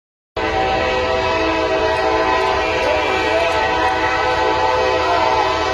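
Train horn sounding continuously from about a third of a second in, a steady chord of several tones held without a break, with a few short rising-and-falling calls over it in the middle.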